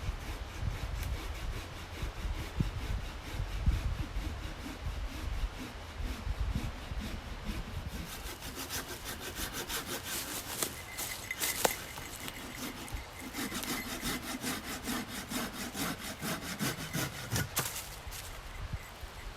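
Hand saw cutting through fallen wood with steady back-and-forth strokes, the strokes turning sharper and more rasping about halfway through.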